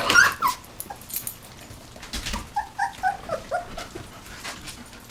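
Young puppies, about 19 days old, whimpering: a loud short cry rising in pitch at the start, then a run of about five short high squeaks a little over two seconds in.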